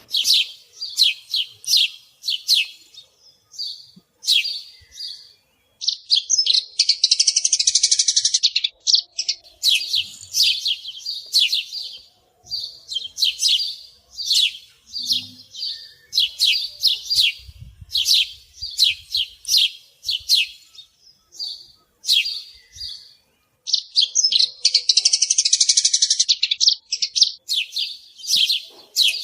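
House sparrows chirping over and over in quick, repeated notes. Twice a longer, denser burst breaks the run.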